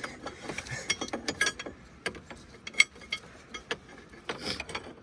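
Metal tools clicking and clinking on a hydraulic hose fitting as it is worked and threaded into place: irregular sharp clicks, with one louder click a little over halfway through.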